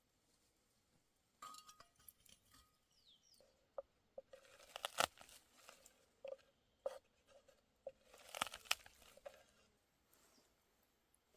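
Faint crunching and crackling in three short bouts, with a few sharp clicks among them.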